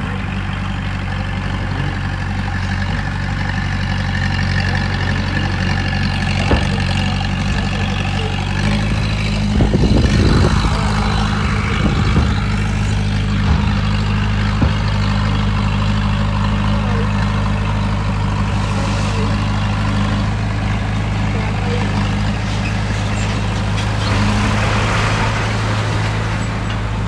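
Heavy diesel engine of earthmoving machinery running steadily, its note stepping up and strengthening about nine seconds in, with a brief louder rush of noise about ten seconds in.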